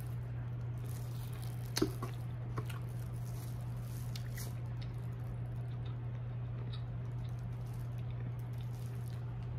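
Quiet eating sounds from seafood being chewed and handled: soft wet squishing, with a couple of small sharp clicks about two seconds in. A steady low hum lies under it throughout.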